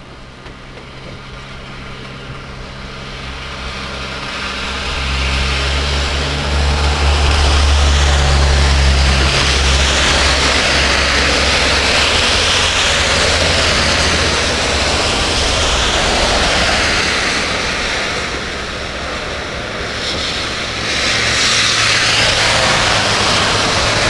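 A motor vehicle's engine hum and tyre noise growing louder over several seconds as it approaches and passes slowly, easing off for a moment and then rising again near the end as another pass comes through.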